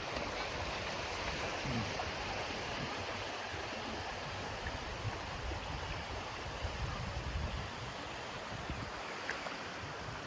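Sea waves washing on a beach: a steady rush of surf with some uneven low rumble.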